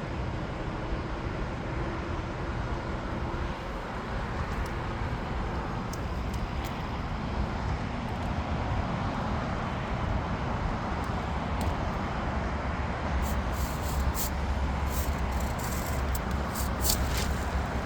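Steady rumbling roar of airport engine noise, aircraft and traffic blended, with the low rumble swelling over the last few seconds and a scatter of short crackling clicks near the end.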